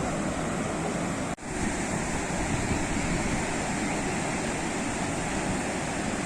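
Sea waves washing on the shore in a steady surf, broken by a brief dropout about a second and a half in.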